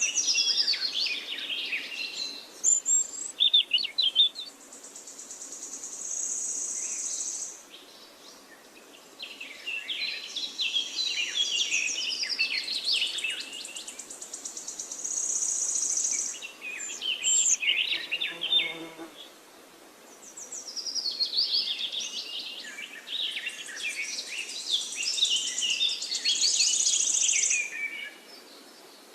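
A songbird singing long, rapid phrases of varied chirping notes, with a short pause between phrases. Each phrase ends in a high, buzzy trill.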